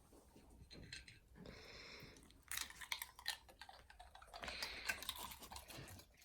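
A dog making quick, light clicking and scuffling sounds in two bursts, one about two and a half seconds in and another about four and a half seconds in.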